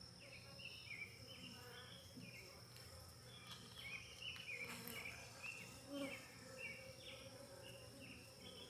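Faint buzzing of honeybees around an open hive, with a steady high insect tone and a run of short, falling chirps, about two or three a second.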